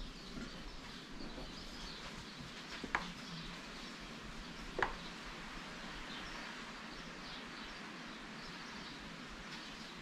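Birds chirping faintly over a steady background hiss, with two sharp clicks about three and five seconds in.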